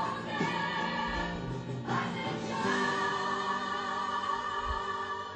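Background music: a choir singing long held chords, moving to a new chord about two and a half seconds in.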